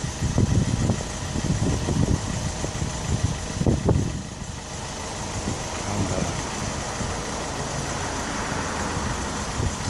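Car engine idling: a low rumble, uneven for the first few seconds and then steady.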